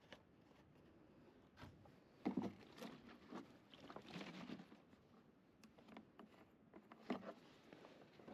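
Faint handling noise: a few light knocks and clicks over a quiet background, the loudest a little over two seconds in and again about seven seconds in.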